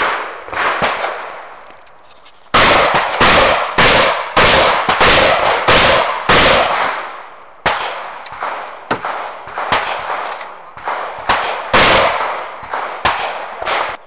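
Shotgun fire in a practical shooting stage: a fast, loud string of shots about two a second for some five seconds, then a slower run of fainter shots with a few louder ones near the end, each with a short echoing tail.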